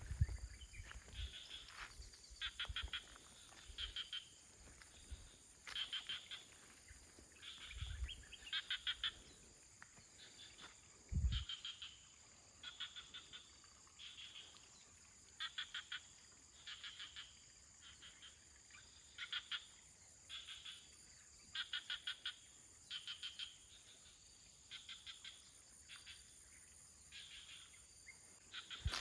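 Calling animals outdoors: short rapid-pulsed chirps repeating about once a second, with a steady high-pitched drone underneath. A few faint low thuds come in between.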